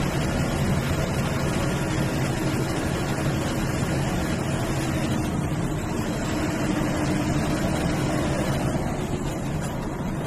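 MSRTC sleeper/seater bus on the move: a steady drone of diesel engine hum and road noise, easing slightly near the end.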